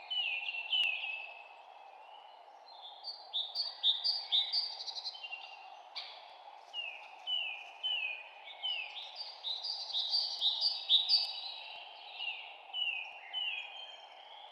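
Songbirds chirping: bouts of short notes that slide down in pitch, repeated quickly and overlapping, over a steady low background hiss.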